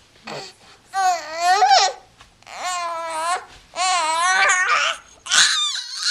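Three-month-old baby cooing and babbling: a short sound, then four drawn-out, high-pitched vocal sounds of about a second each, with a wavering pitch and short pauses between them.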